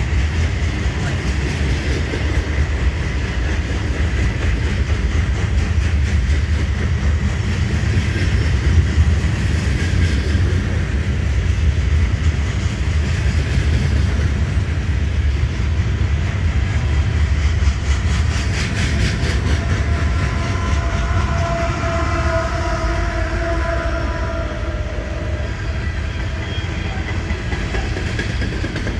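Freight train cars rolling past: a steady low rumble of steel wheels on rail, with clickety-clack as the wheels cross rail joints.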